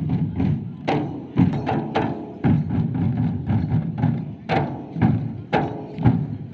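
Folk music at a village wedding dance, driven by loud, sharp drum strikes about every half second over a dense, busy backing.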